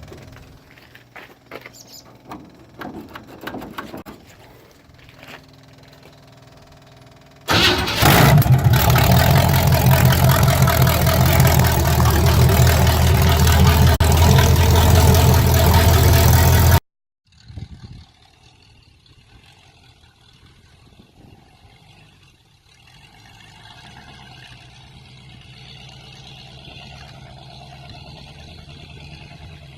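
355 small-block Chevy V8 derby engine running on a two-barrel carburetor. It comes in loud and steady about seven seconds in and cuts off abruptly after about nine seconds. Quieter stretches with scattered ticking lie before it, and a low steady hum follows it.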